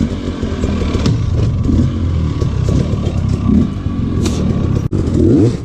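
Dirt bike engine running at low revs, its pitch wavering with small throttle changes, with a few light clicks. The sound breaks off sharply for an instant about five seconds in.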